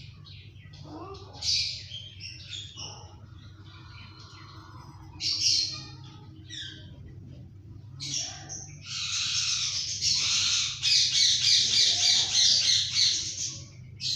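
Indian ringneck parrot squawking: a few short separate calls, then a long loud run of rapid repeated calls over the last five seconds or so.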